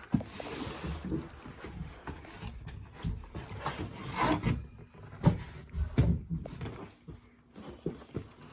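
A cardboard model-train box being handled and opened: irregular rubbing and scraping of the packaging, with several sharp knocks, the loudest about five and six seconds in.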